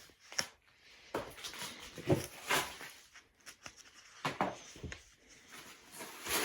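A few scattered soft knocks and rustles of handling in a small room, irregular and spaced about half a second to a second apart.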